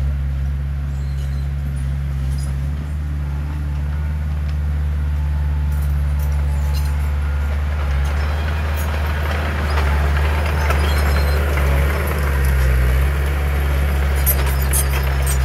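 Heavy diesel earthmoving machinery running steadily, with a deep engine tone throughout. A broader rush of noise rises and falls about the middle, and a few sharp clanks come near the end.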